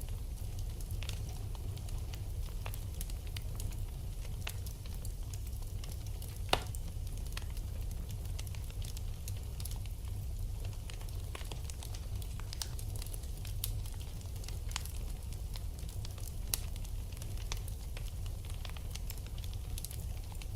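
Wood fire burning in a fireplace, crackling with scattered sharp pops over a steady low rumble, and one loud pop about six and a half seconds in.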